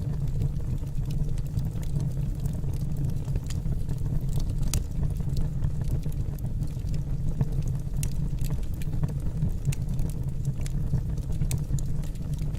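Wood fire burning in a fireplace: a steady low rumble with frequent irregular crackles and pops from the burning logs.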